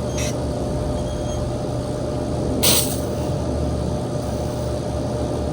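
Steady wind rumbling on the microphone outdoors, with one brief hiss about two and a half seconds in.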